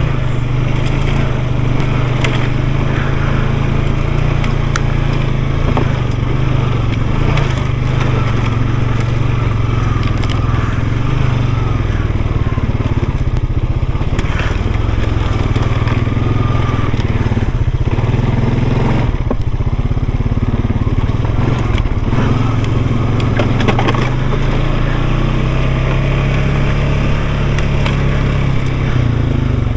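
ATV engine running steadily as it rides a rough trail, its tyres crunching over loose rock and gravel, with scattered knocks.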